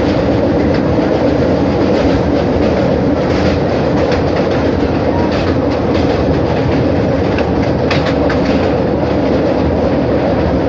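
Express passenger train running at speed over a steel truss bridge, heard from the coach's open doorway: a loud, steady rumble of wheels and carriages with irregular clacks over the rail joints.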